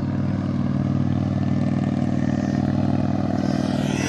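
Motor vehicle engine running steadily, with a short rush of noise near the end.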